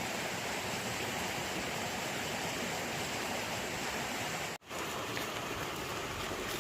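A steady rushing noise, broken off by a brief cut about four and a half seconds in.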